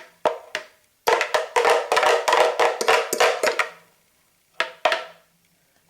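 A spoon scraping and tapping against the blender container while scooping out milk foam: a few separate knocks, then a quick run of rapid knocks and scrapes lasting about two and a half seconds, then two more knocks near the end.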